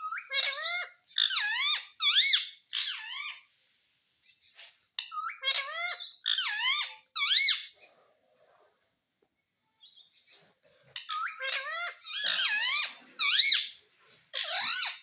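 Pet parrot giving high-pitched squeaky, warbling calls in three bursts with short pauses between, each burst a quick run of rapidly wavering notes.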